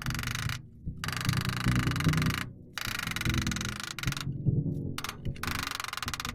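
Welding crackle in several runs, stopping and starting abruptly, over background music.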